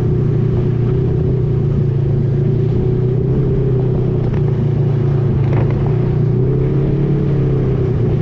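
Tour ATV engine idling with a steady, even hum that wavers slightly in pitch partway through.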